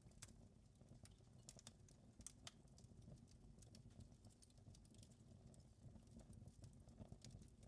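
Wood fire crackling faintly, with scattered sharp pops at irregular intervals over a low steady rumble.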